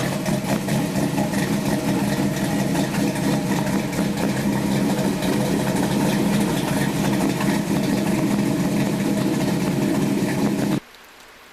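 Big-block Chevrolet V8 of a 1971 Chevy Nova SS idling steadily; the sound cuts off abruptly near the end.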